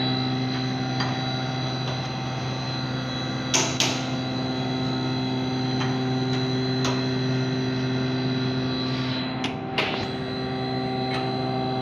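Steady machine hum at a fixed pitch, with a few sharp knocks: two close together about three and a half seconds in and another near the end.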